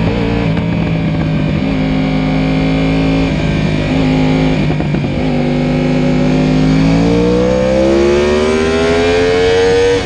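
Onboard sound of a Yamaha YZF-R1 sportbike's inline-four engine in second gear with wind rush: held at a steady, slightly falling pitch through a corner, then rising steadily for the last four seconds or so as the bike accelerates onto a straight. The throttle closes suddenly at the very end.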